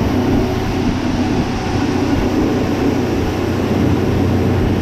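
John Deere 6155M tractor's diesel engine running steadily while driving, a constant drone with no change in pace.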